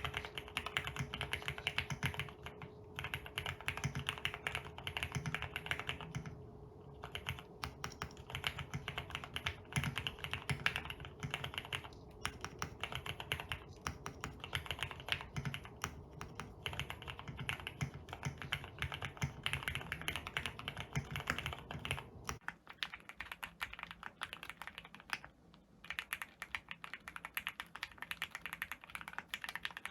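Continuous fast typing on a custom enthusiast keyboard, a dense run of keystrokes several a second with short pauses. About three-quarters of the way in, a faint steady hum and the deeper part of the keystrokes drop away, leaving lighter, higher clacks.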